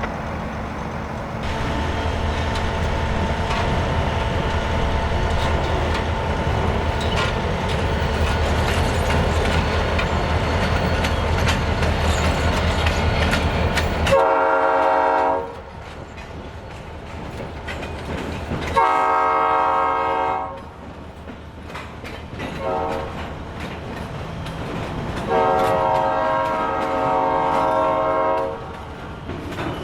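Diesel freight locomotive rumbling close by, then its air horn blowing the grade-crossing signal: two long blasts, a short one and a final long one.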